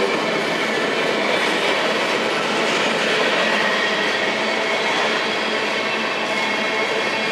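Freight train rolling past: steady noise of cars' wheels running on the rails, with a faint high-pitched ring in it.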